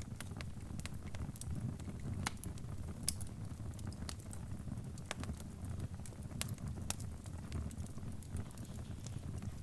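Wood fire crackling: irregular sharp pops and snaps, a few each second, over a steady low rumble of burning.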